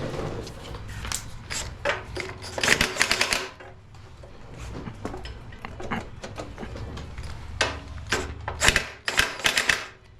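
Hand-tool work on a garden tiller's belt drive: two runs of rapid clicking, a couple of seconds in and again near the end, with scattered knocks between.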